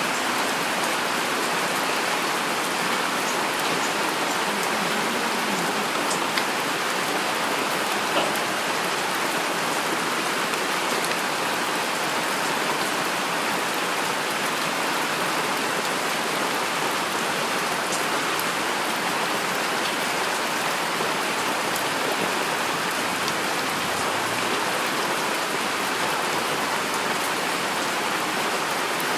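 Heavy rain falling steadily: an even, dense hiss of many drops, with a couple of slightly louder drop hits in the first third.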